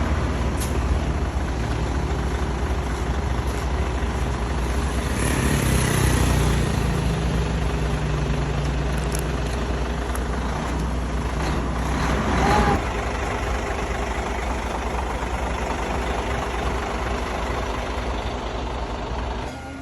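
A heavy truck's engine running steadily, with a louder hissing stretch about five to seven seconds in and a brief louder burst of noise around twelve seconds.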